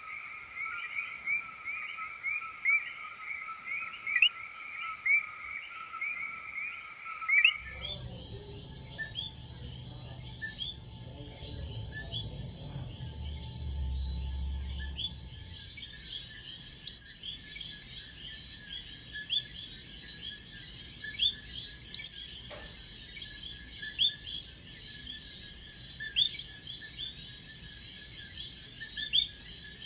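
A night chorus of Puerto Rican frogs: many short chirping calls repeating over and over. About seven seconds in it cuts abruptly to a higher-pitched chorus of quick rising chirps, with a low rumble for several seconds after the cut.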